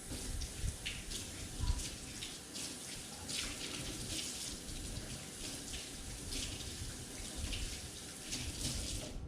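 Kitchen faucet running with hands being washed under the stream. The water hiss and splash comes in uneven surges, starts suddenly and shuts off just before the end.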